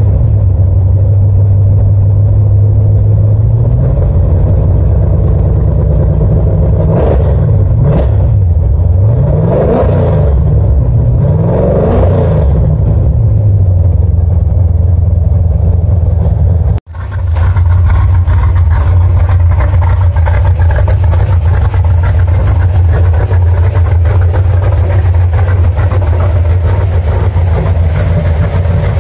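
Small-block Ford V8 of a 1982 Mustang GT idling, then revved in several quick blips that rise and fall. After a momentary break in the sound, it settles back to a steady idle.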